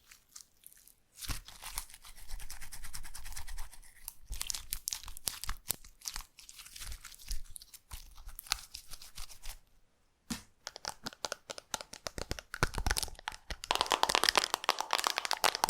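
Slime being squeezed and stretched by hand, giving a dense run of crackling pops and clicks. The crackling breaks off briefly about ten seconds in, then comes back louder near the end.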